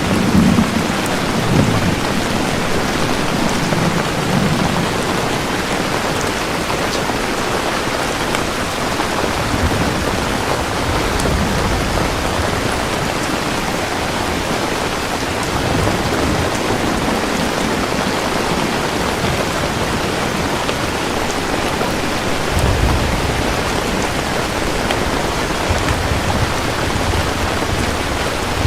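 Steady heavy rain falling in a thunderstorm, with low rolling thunder rumbling in and out, strongest near the start and again near the end.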